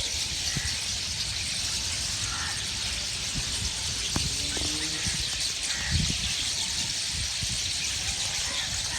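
Dense chorus of many small birds chirping together in a steady high twittering, with scattered low thumps underneath.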